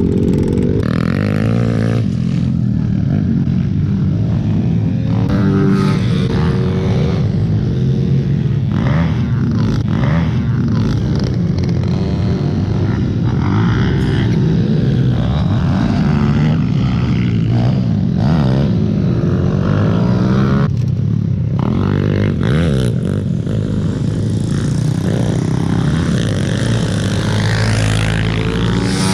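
Pit bike engines running: a steady engine close by, with other small bikes revving up and down in pitch as they ride around.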